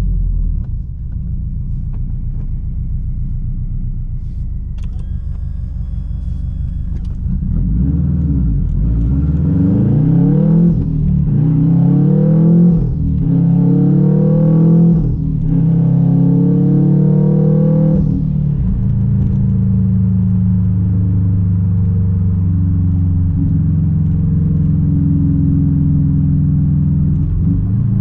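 Straight-piped 2006 Subaru WRX STI's turbocharged flat-four engine and exhaust rumbling at light throttle. About eight seconds in it accelerates hard through the gears, its pitch climbing four times with a brief break at each of three upshifts. From about eighteen seconds it settles into a steady cruising drone.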